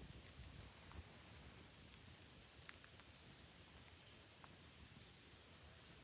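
Faint outdoor background with a bird's short, high chirp repeated about every two seconds, and a few faint clicks.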